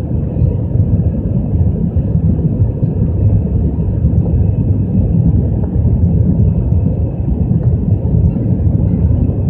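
Steady low rumble of an Airbus A320's engines and airflow heard inside the passenger cabin while the aircraft is still climbing, with a faint steady hum over it.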